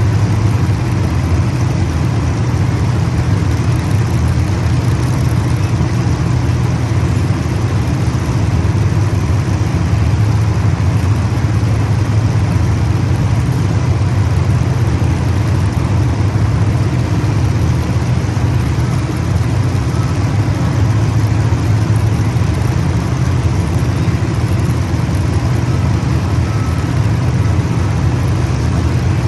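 Race car engines running continuously around the track, a steady loud drone with no breaks.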